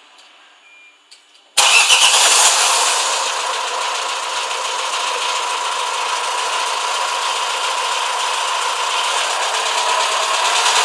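Renault 2.0 dCi M9R four-cylinder diesel engine starting suddenly about a second and a half in, then running steadily at idle.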